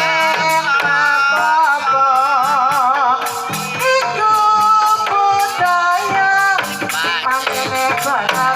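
Banyumasan tayub gending: a sinden's wavering vocal melody over gamelan accompaniment with a steady, quick percussion beat.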